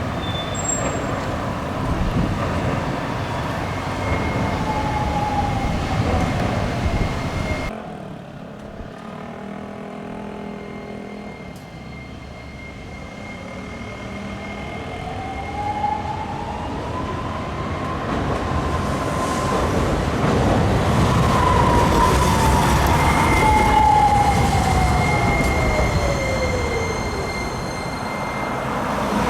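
Hiroshima Electric Railway 5100-series tram's electric traction motors, giving a whine that slowly falls in pitch, then after a sudden cut about eight seconds in rises and falls again as the tram gathers speed and slows, over a rumble of wheels on rail.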